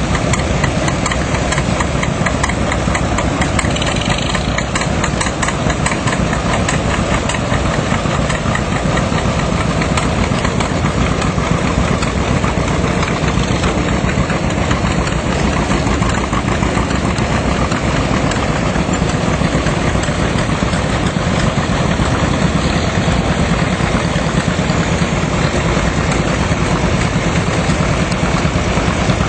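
Antique tractor engines running steadily at low speed, with a quick, even beat.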